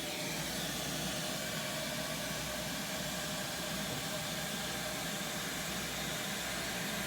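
Vacuum cleaner running steadily, a continuous even hiss with a faint motor whine.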